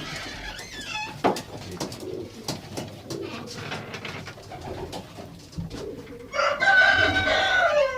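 Pigeons cooing in a loft, with birds moving and calling softly amid scattered clicks; about six seconds in, a louder, wavering bird call sets in and lasts nearly two seconds.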